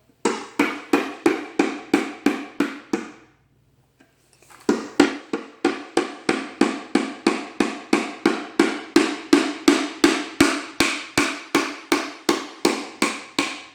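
Hammer driving a nail into a wooden birdhouse: steady blows about three a second, each ringing briefly. After about three seconds the hammering stops for a second and a half, then resumes at the same pace.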